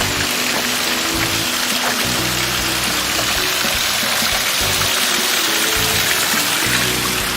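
Steady rushing water, with background music of held low notes over it.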